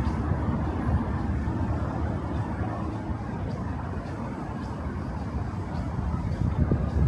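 City street ambience with a steady low rumble of motor traffic, swelling as a vehicle passes close near the end.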